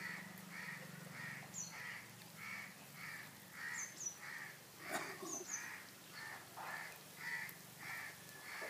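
A bird calling over and over in a steady series, about two calls a second, with a few brief high chirps from another small bird and a single light knock about five seconds in.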